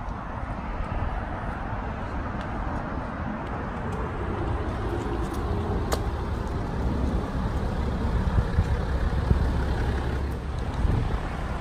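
BMW F10 530d's straight-six diesel engine and tyres as the car drives slowly up and draws in close, growing gradually louder. A single sharp click about halfway through.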